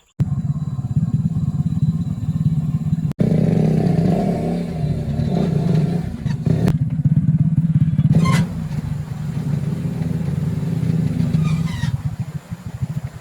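Motorcycle engine running steadily at idle and light throttle, cutting out for an instant about three seconds in.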